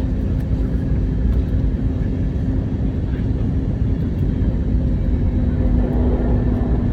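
Steady low rumble of an Airbus A321neo heard from inside the passenger cabin: its CFM LEAP-1A engines and the airflow around the fuselage, with a steady low hum running through it.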